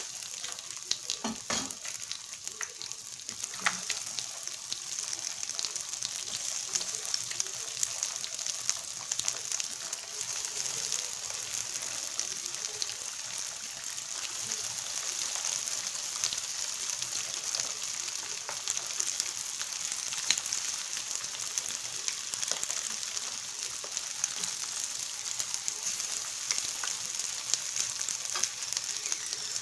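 Nems (spring rolls) frying in hot oil for their second fry, to make them crunchy: a steady crackling sizzle, with a few knocks in the first few seconds.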